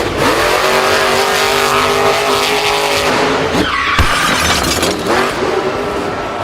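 Monster truck engine running with tyre squeal, its pitch sweeping upward about halfway through.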